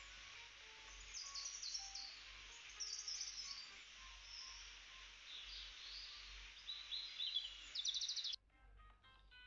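Small birds chirping and twittering in quick high calls over a steady hiss, which cuts off abruptly near the end.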